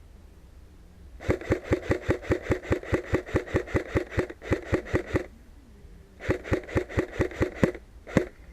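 AK-74M airsoft replica firing full-auto: two long bursts of rapid, evenly spaced shots, then a single shot near the end.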